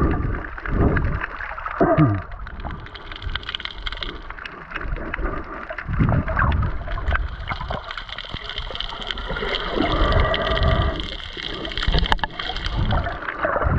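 Muffled water sound heard underwater: shifting, gurgling water movement with scattered sharp clicks and crackles throughout.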